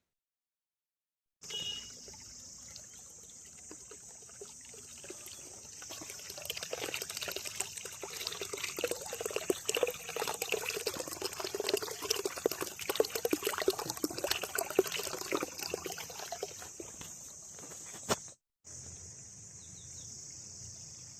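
Water trickling and splashing, swelling in the middle and easing off after about 17 seconds, over a steady high-pitched insect drone.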